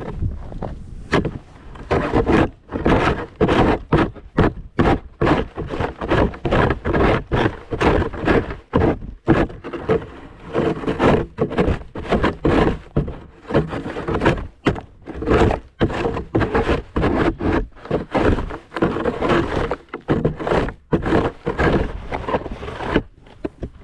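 Snow shovel scraping along a driveway and knocking, in quick, irregular repeated strokes.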